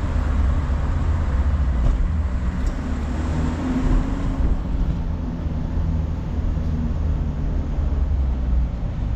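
Car driving, heard from inside the cabin: a steady low engine hum with road rumble.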